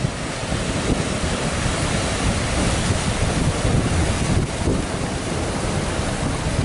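Strong wind buffeting the microphone over a steady rush of harbour water, with no let-up.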